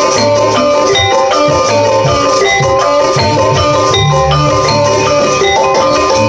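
Javanese gamelan music: bronze metallophones playing fast runs of struck, ringing notes, with repeated low strokes underneath.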